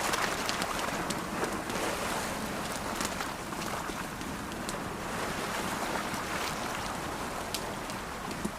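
Ocean waves washing in and out in a steady rush that slowly swells and eases, mixed with a crackling campfire whose sharp snaps and pops come at uneven moments.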